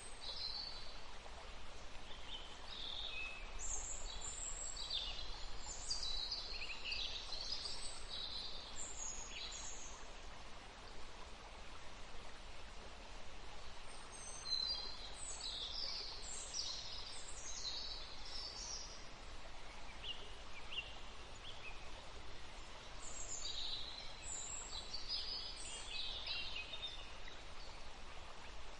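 Songbirds singing in three bouts of quick, high chirps and trills over the steady rush of a forest stream.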